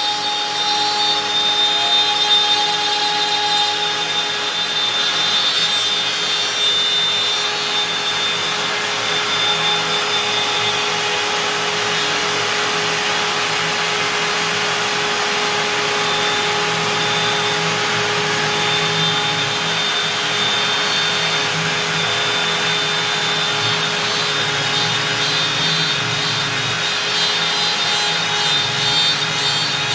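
Stepcraft M1000 CNC router's spindle running at 25,000 rpm with a 4 mm up-down compression bit cutting through beech: a steady whine over a rough, grinding cutting noise that holds evenly throughout.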